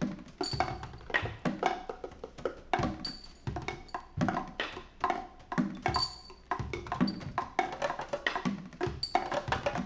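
Instrumental band music with busy, loose drumming: a dense run of knocking percussion hits and a short high ping about once a second, over bass and guitars.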